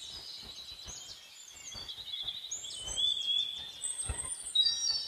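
Birds calling in forest: a run of high chirps, short whistles and quick trills, one after another and overlapping.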